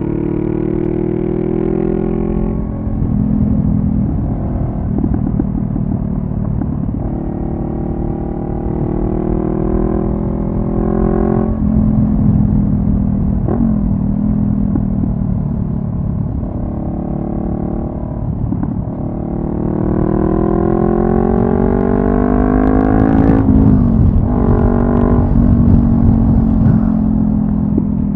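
2014 Honda CB500F parallel-twin engine through a Delkevic carbon slip-on exhaust, ridden on the road: the revs climb under throttle and drop at each gear change, several times, with the longest and loudest climb about two-thirds of the way through.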